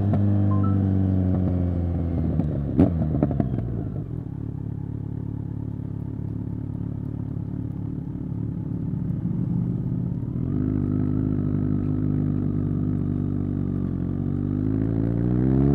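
Kawasaki Z900 SE inline-four through a Zard full-system exhaust, heard onboard: the revs fall as the bike slows, with a sharp click about three seconds in. Then it runs low and steady, picks up a little after ten seconds, and the revs rise steadily near the end as it accelerates.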